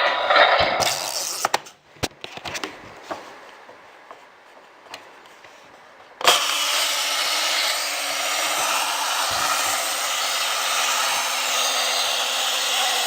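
Electronic sound effect from the Thunderbirds Tracy Island toy playset's small speaker: a loud, steady rushing noise that stops about a second and a half in. A few quieter seconds of light clicks follow, then the rushing noise starts again abruptly about six seconds in and holds steady.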